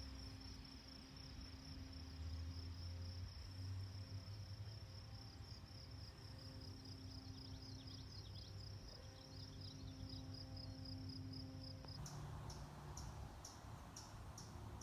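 Crickets trilling: a steady, faint, high continuous trill. About twelve seconds in it gives way to separate high chirps repeating a few times a second.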